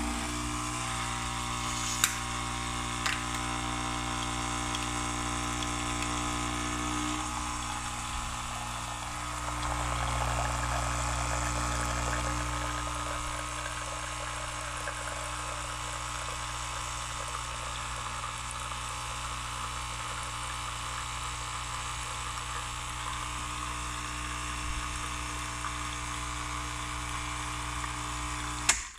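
Nescafé Dolce Gusto Piccolo's vibratory pump running as it brews, a steady buzzing hum with a hiss of liquid flowing, then cutting off abruptly. The hum changes tone about seven seconds in, and there are two light clicks early on.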